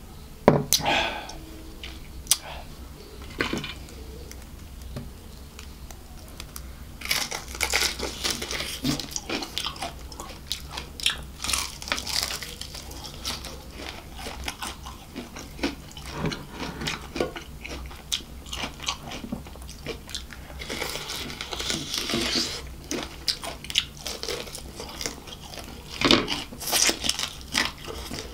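Close-miked biting and chewing of KFC crispy fried chicken: the crunch and crackle of the fried coating come in bursts with quieter pauses between. A sharp click comes just after the start.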